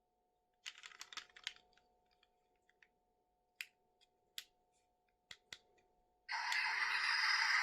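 Toy and packaging being handled: a short burst of crackly clicks, then several single sharp clicks. About six seconds in, a loud steady hissing noise starts and keeps going.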